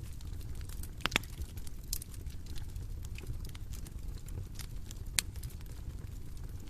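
Bonfire crackling: a steady low rumble of burning with scattered sharp pops and snaps, the loudest about a second in and again a little past five seconds.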